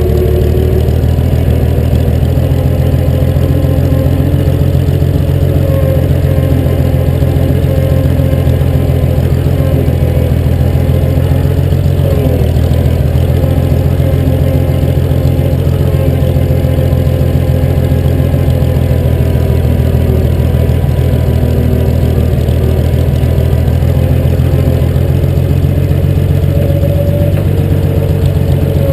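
1953 Cockshutt 50 tractor's six-cylinder engine running steadily at an even speed.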